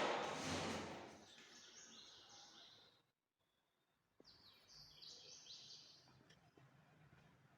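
Birds chirping in quick high calls, in two spells with a short silence between. A loud burst of noise at the start fades over about a second.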